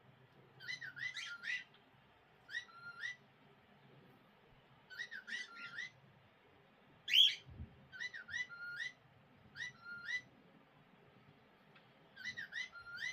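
Pet cockatiel chattering in about seven short bursts of whistled, speech-like syllables, mimicking words it learned from its owner's voice. A sharper, louder note comes about seven seconds in.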